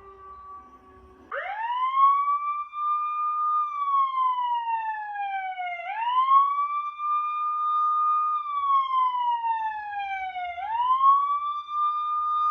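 Wailing emergency-vehicle siren, starting about a second and a half in: the tone sweeps quickly up, holds high for a couple of seconds, then slides slowly down before climbing again, in about three cycles.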